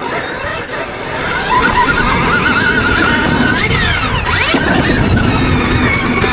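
Stark Varg electric motocross bike's motor and drivetrain whining, its pitch wavering as the throttle changes, with a quick sharp rise and fall in pitch about four seconds in.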